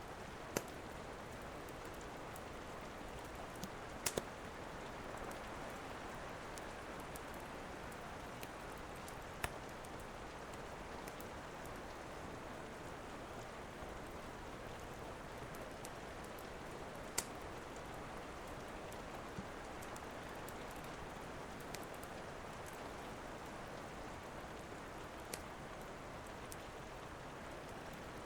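Steady rain falling, with a few sharp, isolated pops and cracks from a crackling wood fire scattered through it.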